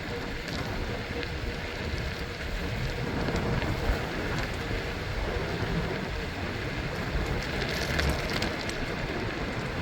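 Steady rushing noise of a bicycle ride: wind on the microphone over the rumble of tyres rolling on pavement, with a few small clicks.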